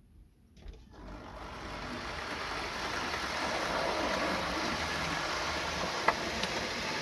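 Hornby 00 gauge model trains running on the track: a steady whirring rattle of motors and wheels that builds up over the first couple of seconds as the trains get going. A sharp click comes about six seconds in.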